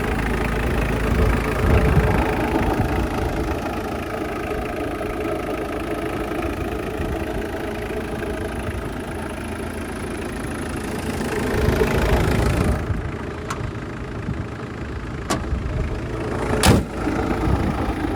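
Mitsubishi Pajero turbo diesel engine idling steadily, with a few sharp clicks near the end.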